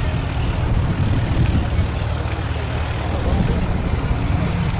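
Republic P-47D Thunderbolt's Pratt & Whitney R-2800 radial engine running, a loud dense rumble with a steady low tone coming in about three and a half seconds in.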